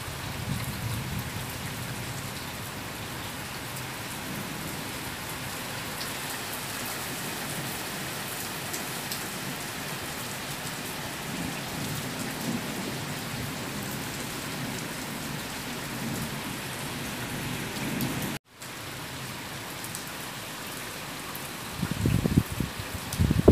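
Rain falling steadily. The sound drops out for an instant about eighteen seconds in, and a few loud low rumbles come near the end.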